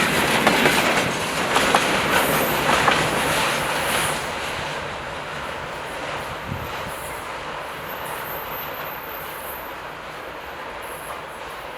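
Freight train of tank wagons rolling past, wheels clattering over the rail joints, with brief high-pitched wheel squeals. The clatter is loudest in the first few seconds and fades as the train draws away.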